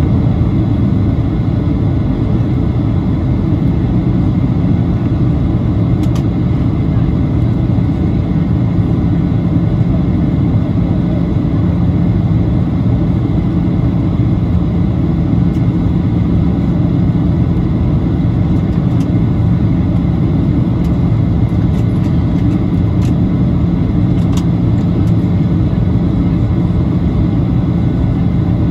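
Steady cabin noise inside a Boeing 737-800 in flight: the CFM56 jet engines droning and airflow rushing past the fuselage, with a steady low hum. A couple of faint ticks come through, about six seconds in and again near the end.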